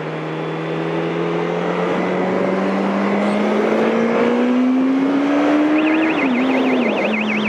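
Yamaha R1 inline-four sport-bike engine pulling up through the revs, its pitch climbing steadily for about six seconds, then dropping and levelling off. A fast warbling high tone starts near the end.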